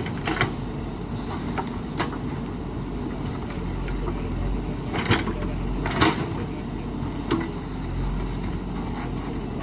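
JCB 3DX backhoe loader's diesel engine running steadily, with a few sharp knocks from the working machine; the loudest comes about six seconds in.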